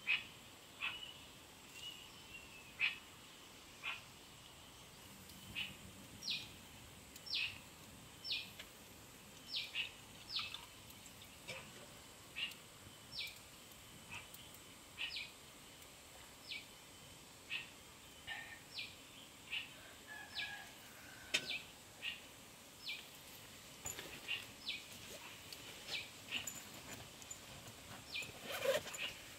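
A small bird chirping: short, sharp, high calls repeated about once a second, over a faint steady high whine.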